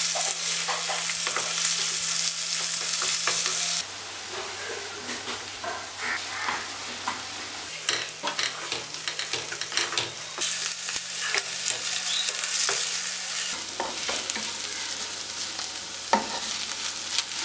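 Sliced ivy gourd and shallots sizzling in oil in a pan as a wooden spatula stirs them, with frequent scrapes and taps of the spatula against the pan. The sizzle is loudest for the first four seconds, then drops and changes abruptly several times.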